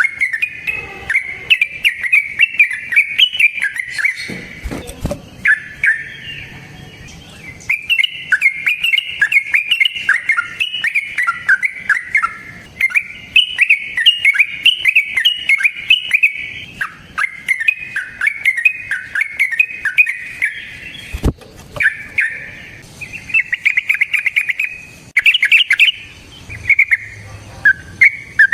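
Yellow-vented bulbul (trucukan) singing long, rapid, warbling phrases almost without a break, pausing briefly about four seconds in and again about twenty-one seconds in. A single sharp click comes near the second pause.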